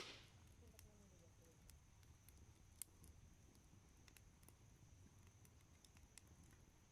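Wood campfire crackling faintly with scattered small pops, a sharper pop right at the start and another about three seconds in.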